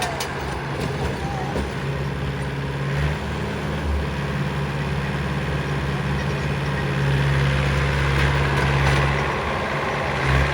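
Heavy diesel engine of a backhoe loader or tractor running steadily, a little louder from about seven seconds in.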